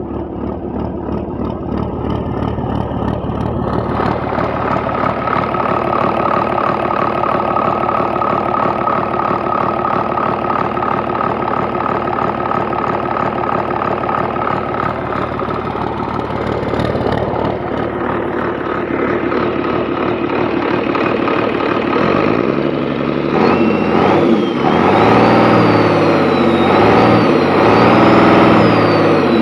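Sinotruk HOWO truck diesel engine running steadily, then from about two-thirds of the way through revved up and down repeatedly, its pitch rising and falling with each blip of the throttle.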